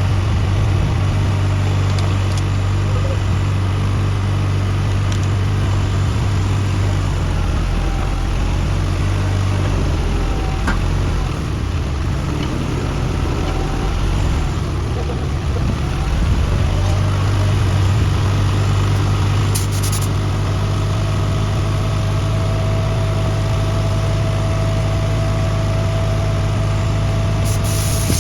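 An engine idling steadily with a low, even hum. A thin whine joins in for the last several seconds.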